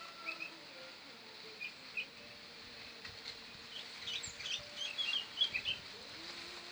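Small birds chirping: scattered short, high chirps that come thickest past the middle, over a faint steady low hum.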